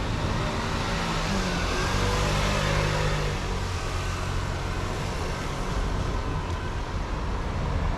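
A road vehicle's engine running as it passes, with tyre and traffic noise swelling about two to three seconds in, over a steady low hum of traffic.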